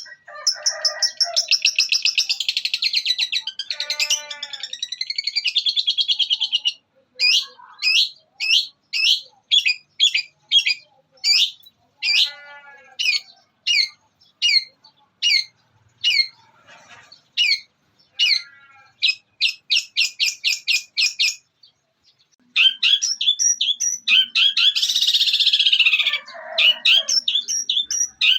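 Long-tailed shrike (cendet) singing a mimicking song that weaves in other birds' calls, such as fighting sparrows. It opens with fast high trills, then a long run of sharp separate chirps about two a second, breaks off briefly near the end, and comes back in a dense rapid warble.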